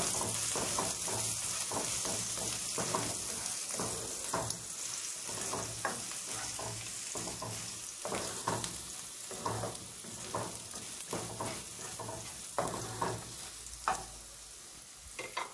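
Chopped garlic and ginger sizzling in hot oil in a nonstick wok, with a spatula scraping and tapping the pan about once or twice a second as it is stirred. The sizzle slowly grows quieter toward the end.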